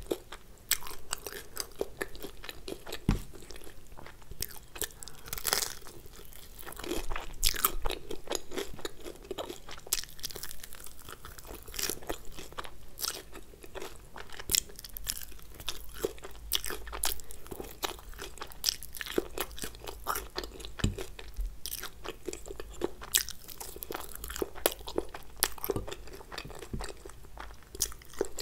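Close-miked chewing and crunching of crispy crumb-fried food, with frequent irregular sharp crunches.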